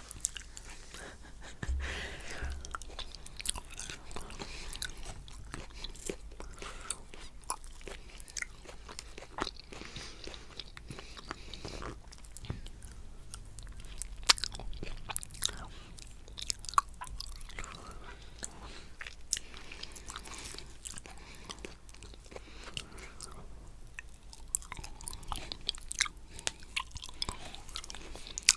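Close-miked mouth sounds of someone eating coconut cheesecake: soft, wet chewing with many small irregular clicks and smacks, and a few sharper clicks.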